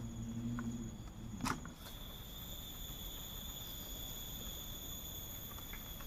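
Steady high-pitched insect drone that settles in about two seconds in, with a single sharp knock shortly before it.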